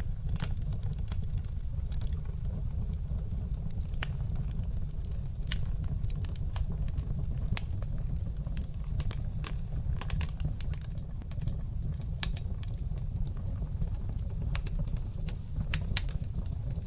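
Wood fire burning in a fireplace: a steady low rumble under irregular sharp crackles and pops, with a couple of louder pops near the end.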